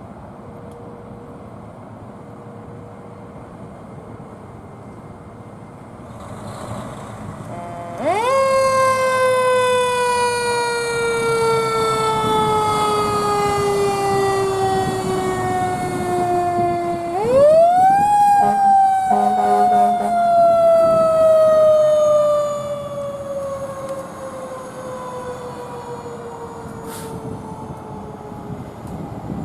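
Fire engine's mechanical siren wound up about eight seconds in, then coasting down in a slow falling wail. It is wound up again about halfway through and winds down slowly near the end.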